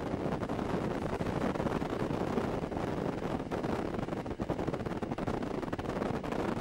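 Loaded coal hopper wagons rolling past, a steady rolling noise of steel wheels on rail, with wind on the microphone.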